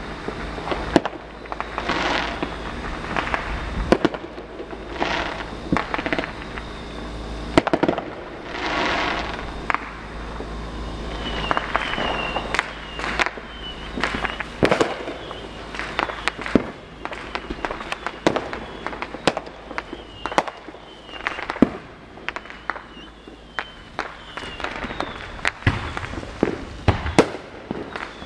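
Consumer fireworks and firecrackers going off across a neighborhood: a steady, irregular run of sharp bangs at varying distances, mixed with several longer noisy bursts lasting up to a second.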